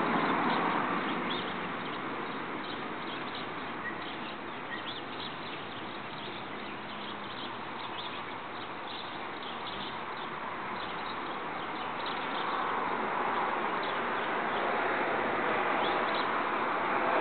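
Outdoor background hiss with many quick, high chirps of small birds scattered through it.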